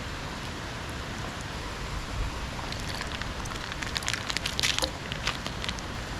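Steady rain falling, with a scatter of light clicks and knocks in the second half from cooking things being handled.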